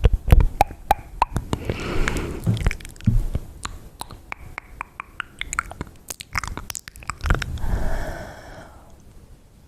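Close-miked ASMR mouth sounds: rapid wet clicks and smacks of the lips and tongue, with two softer hissing passages, one about two seconds in and one near the end.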